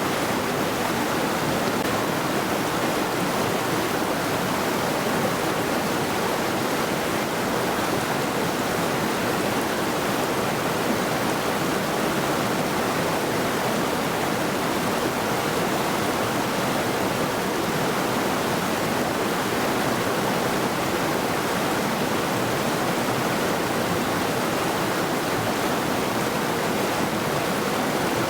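Middle Saluda River rushing steadily over rocks: a constant, even wash of flowing water.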